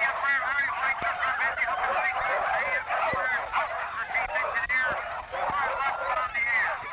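A chorus of many sled dogs yelping and barking at once, excitedly, in dense overlapping high-pitched calls.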